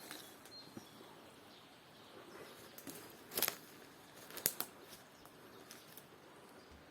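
Quiet open-air background with two brief crackling rustles, about three and a half and four and a half seconds in.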